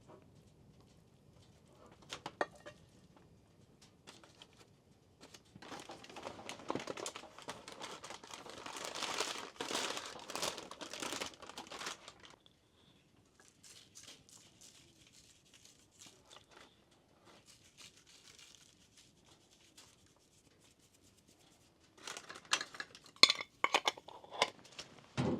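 Crinkling and rustling in uneven bursts, densest for several seconds around the middle, then a run of sharp clicks and knocks near the end.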